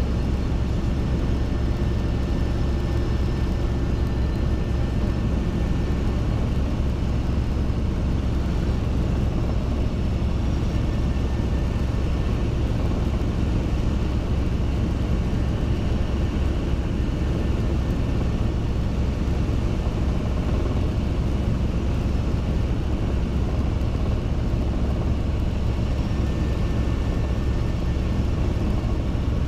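Robinson R22 helicopter in flight: steady piston-engine and rotor noise with a low, fast flutter, unchanging throughout.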